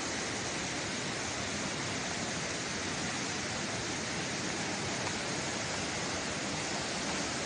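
Steady rushing of a waterfall, an even hiss without breaks.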